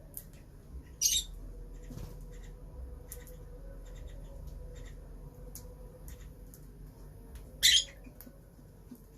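Lovebirds chirping softly with many short faint chirps, broken by two loud shrill squawks, one about a second in and one near the end.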